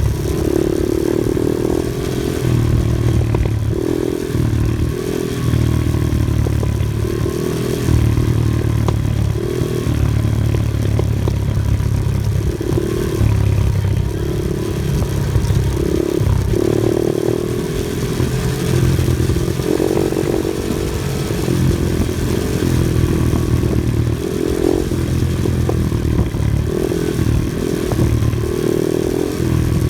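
Off-road vehicle engine working along a rough dirt trail, its revs rising and falling every second or two, with rattling and scraping from the vehicle over the terrain.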